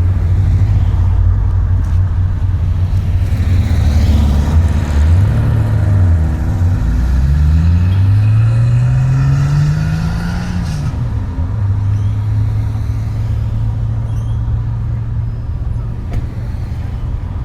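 A car engine running loudly at idle and revved twice: a quick blip about five seconds in, then a longer rising rev that drops back to idle about ten seconds in.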